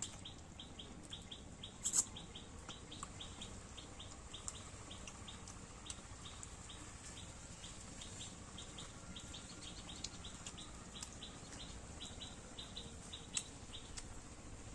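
A small bird chirping over and over in short, high chirps, several a second, with a sharp click about two seconds in.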